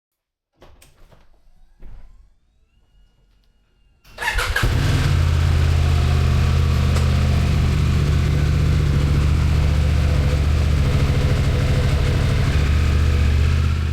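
A few faint clicks and a knock, then about four seconds in a motorcycle engine starts up and settles into a loud, steady idle.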